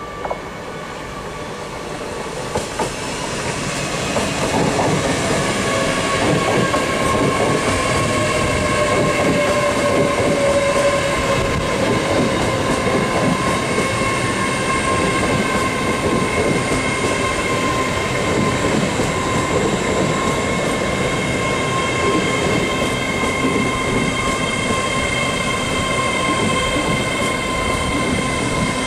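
A Great Western Railway Hitachi IET intercity train running past close by, its wheels rumbling and clattering on the rails. The sound grows loud over the first four seconds and then holds steady as the coaches go by, with several steady high tones running over the wheel noise.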